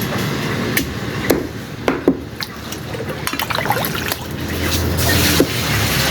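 Irregular knocks of a knife striking a cutting board, with wet sounds of raw chicken being cut and handled, over a steady background hum.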